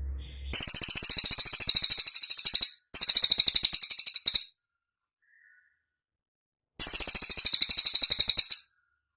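Cililin bird singing: three long, very high, fast trills of evenly repeated notes, the first two back to back and the third after a pause of about two seconds.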